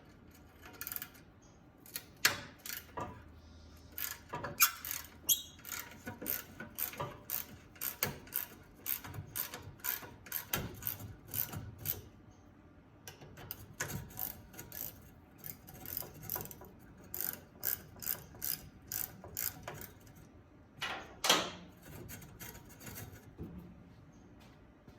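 Hand ratchet wrench clicking in repeated strokes, about two clicks a second, with a short pause partway and one louder rasp near the end.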